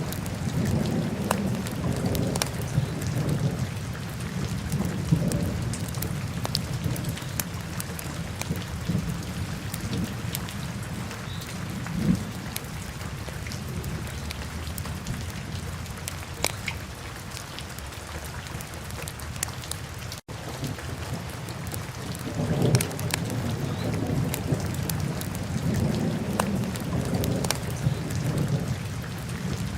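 Wood fire crackling in a fireplace: a steady low rumble of flames with scattered sharp pops. It cuts out for an instant about two-thirds of the way through.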